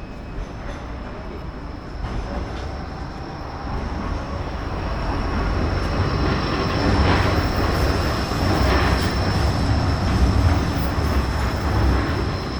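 A light rail tram passing close by. Its low rumble and wheel noise grow louder over several seconds, peak past the middle and begin to fade near the end.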